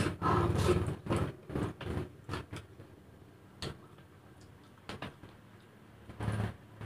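Close-up eating sounds from someone eating fried noodles by hand: irregular short clicks of chewing and lip-smacking, with fingers rustling the paper wrapping. A passing motor vehicle fades out within the first second.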